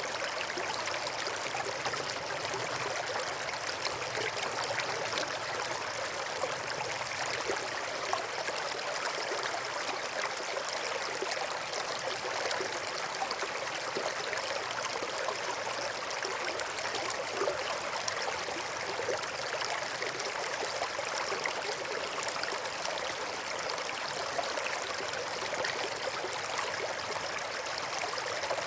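A small stream running over stones, a steady babbling and trickling of water.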